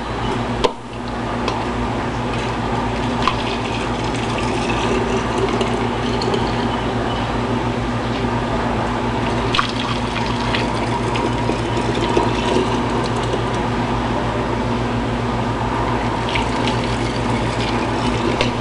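Water running steadily into a container as canning jars or a pot are filled, with a few light clicks along the way.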